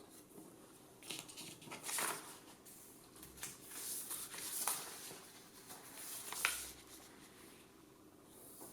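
Paper sheets rustling and crinkling in several short bursts, with a few light clicks, as drawings are handled or pages turned.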